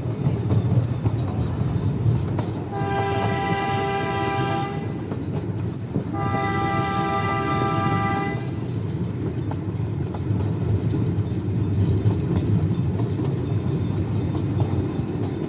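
Amusement-park train running with a steady low rumble, sounding two long horn blasts of about two seconds each, the first about three seconds in and the second about six seconds in.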